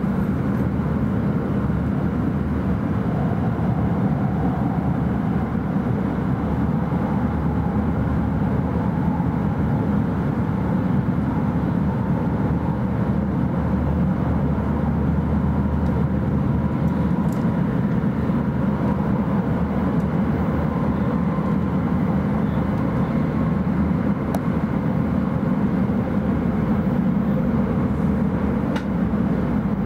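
Steady interior running noise of an E5 series Shinkansen train, a constant low rumble heard inside the passenger car.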